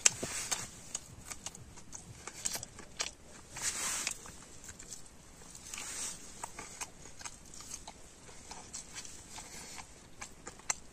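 A person biting and chewing crisp fried fish pakoras, a stream of small crunches and crackles. There is a sharp click right at the start and a short hiss about four seconds in.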